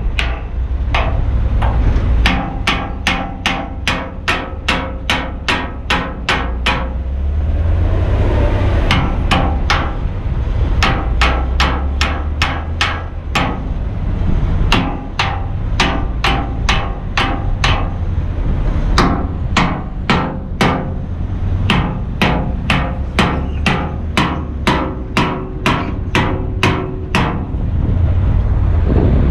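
Steady hammering on steel, about two to three ringing metal blows a second in long runs with a few short breaks, over the low rumble of an idling truck diesel.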